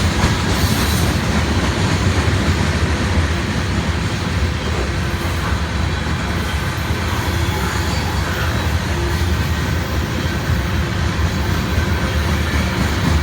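Freight train rolling past: a steady, loud rumble of railcar wheels on the track.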